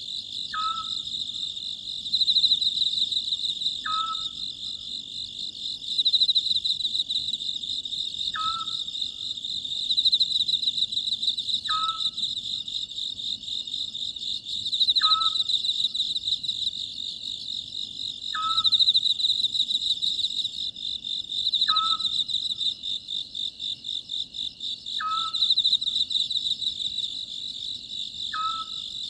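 A night chorus of crickets or similar insects chirring steadily at a high pitch with a fast pulse. Over it an Oriental scops owl calls, one short note falling slightly in pitch, repeated about every three seconds, nine times.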